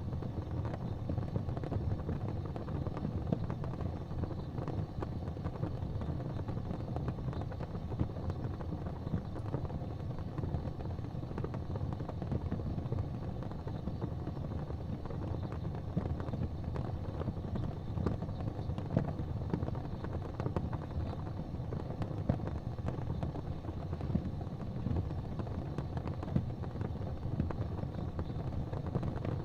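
Fireplace fire crackling, with frequent small pops over a steady low rumble.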